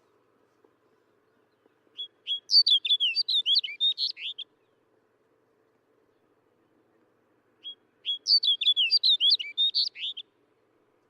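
Snow bunting singing: two short phrases of quick, warbling notes, the first about two seconds in and the second near the end, with a pause between.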